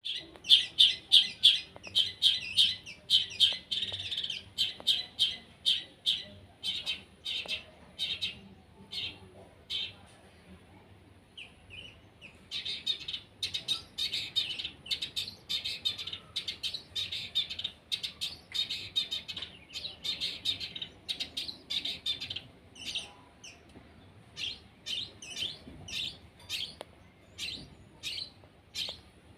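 Long-tailed shrike (cendet) singing a fast, chattering song of short, sharp chirps. The song comes in dense runs, with a brief lull about a third of the way through.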